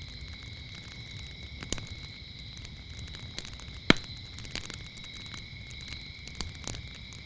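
Wood fire crackling with scattered pops, one sharp loud pop about four seconds in, over a continuous high-pitched trill of crickets.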